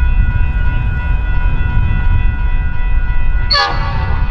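Metra commuter train led by an MP36PH-3S diesel locomotive running past, a heavy rumble under a steady chord of high tones. A short sharp sound falling in pitch cuts in about three and a half seconds in.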